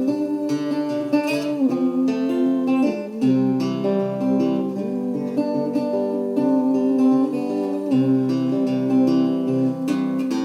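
Instrumental break in a song: acoustic guitar playing chords, with a melody line that slides up and down in pitch.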